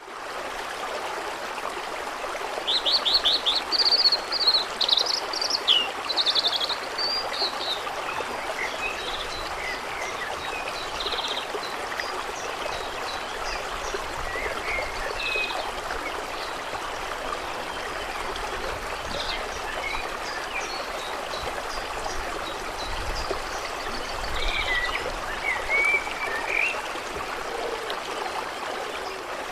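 Steady trickling, running water, with small birds chirping over it: a loud run of bird song about three seconds in, then scattered calls, with a few more near the end.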